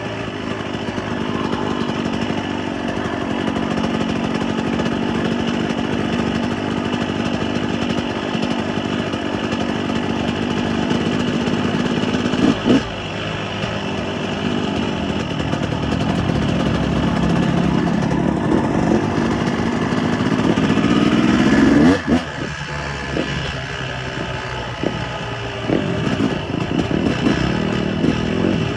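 Motocross bike engine running under way. Its pitch climbs steadily for several seconds and then drops off sharply about three-quarters of the way through as the throttle is shut, with a few knocks around that point.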